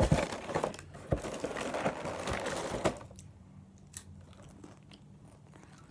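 Plastic snack bag crinkling and crumpling as it is handled for about three seconds, then a few faint clicks.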